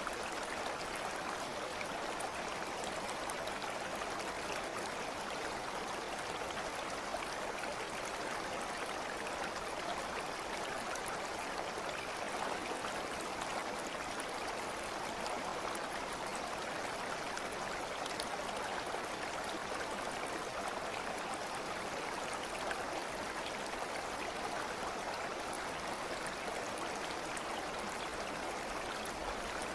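Water of a stream running steadily over stones, a continuous even rush with small splashes.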